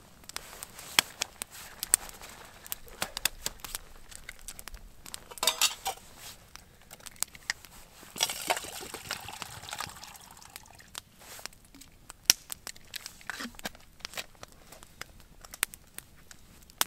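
Clinks, knocks and crinkling of camp cookware and gear being handled, with about two seconds of rushing, liquid-like noise about eight seconds in.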